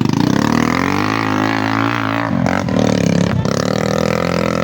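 Dirt bike engines running, their pitch rising and falling as the throttle changes, with a break and a change of pitch about halfway through.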